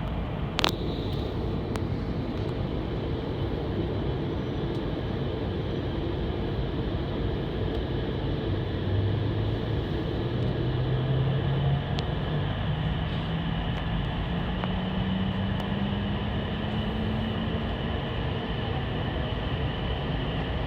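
E2 series Shinkansen train running and accelerating: a steady rumble of running noise with a low hum that rises steadily in pitch from about eight seconds in. A sharp click sounds about half a second in.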